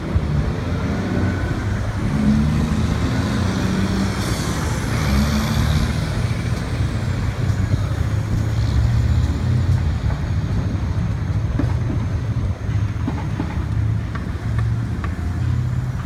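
Street traffic: a steady low engine rumble from vehicles, with one vehicle passing louder about four to six seconds in.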